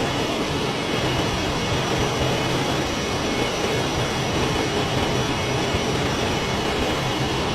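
Steady, loud jet airliner engine noise, an even rushing sound with a low rumble and a few faint steady tones, unchanging throughout.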